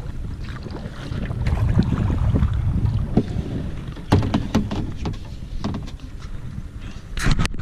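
Wind buffeting the microphone in a steady low rumble, with scattered sharp knocks, most of them in the second half.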